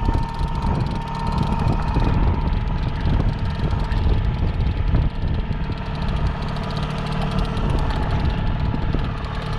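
Boat's outboard motor running steadily at low trolling speed.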